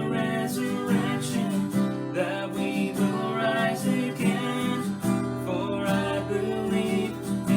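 Music: a worship song played on strummed acoustic guitar.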